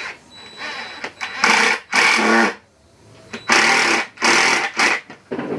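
Power drill running in a series of short trigger bursts, about five in all, each lasting around half a second with brief pauses between them, as when drilling pocket holes through a jig or driving pocket screws.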